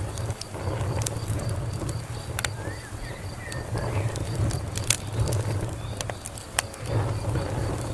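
Wood fire crackling: irregular sharp pops and snaps over a low steady rumble of flames.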